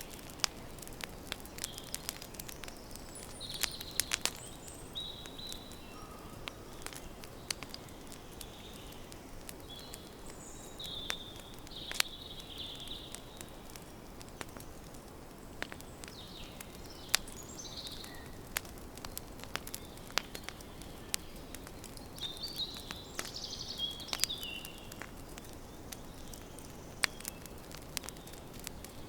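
Campfire crackling, with sharp pops at irregular intervals over a soft steady hiss. Small birds chirp now and then in the background.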